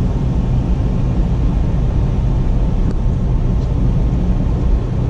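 Steady low rumble of a car driving, engine and tyres on the road, heard from inside the cabin.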